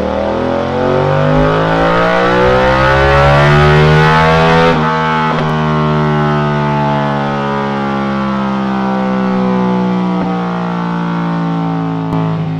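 Suzuki SV650's 90-degree V-twin running through a Delkevic stainless steel oval silencer with its baffle removed, pulling on a dyno. It revs steadily upward, the throttle shuts about four and a half seconds in, and the engine note then winds slowly down.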